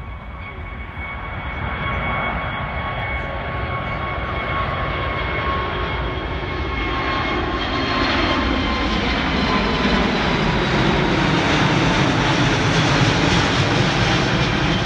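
Jet airliner's engines passing close by: a high whine over a roar that builds and is loudest in the second half, the whine dropping slightly in pitch as it goes by.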